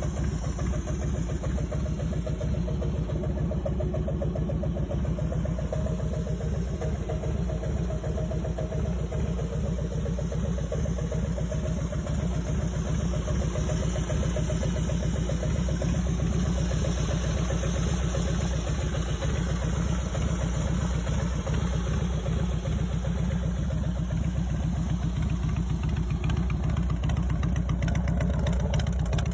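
2003 Harley-Davidson Heritage Softail's V-twin engine idling steadily through its exhaust, with a fast, even pulse and no revving.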